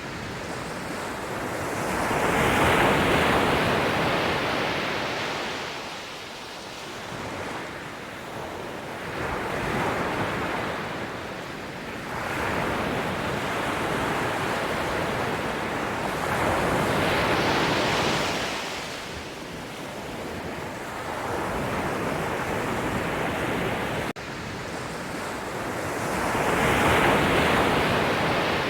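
Sea surf: waves breaking and washing in, the noise swelling and fading in slow surges a few seconds apart.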